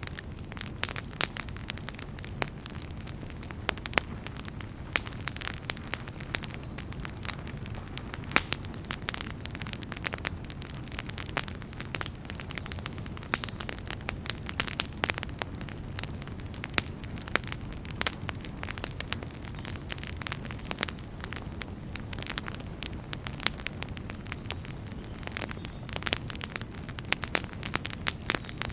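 Wood fire crackling in a fireplace: frequent sharp, irregular pops and snaps over a steady low rumble of flame.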